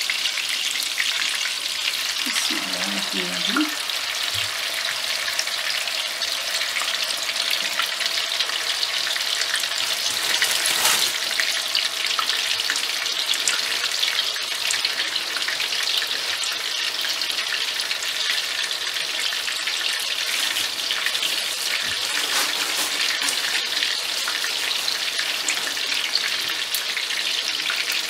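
Chicken mince kebab patties shallow-frying in hot oil in a frying pan: a steady, crackling sizzle.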